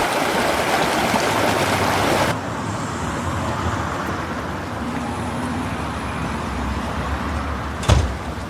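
Vehicle engine and road noise, which drops abruptly about two seconds in, with one sharp knock near the end.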